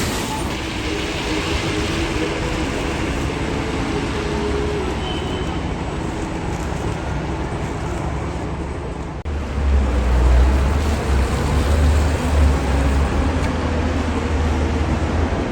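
City street traffic noise, with a deep low rumble coming in about nine seconds in and getting louder for a few seconds.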